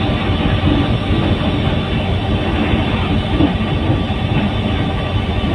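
Train running on the track, heard from on board as it rolls through a station: a steady, dense rumble of wheels and running gear.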